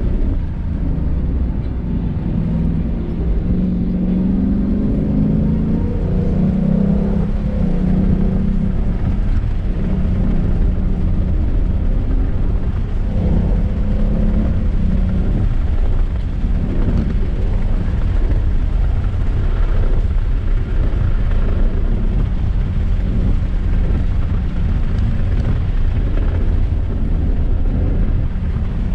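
Car engine pulling hard through the gears, its revs rising and falling repeatedly over a steady low rumble of road and wind noise.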